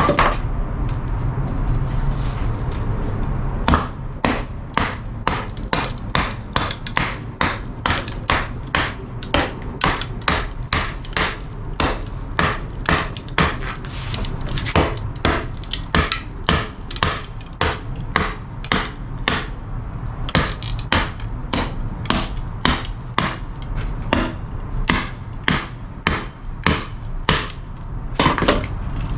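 Wooden baton striking the spine of a knife to split a branch section lengthwise (batoning), at about two sharp knocks a second, starting about four seconds in.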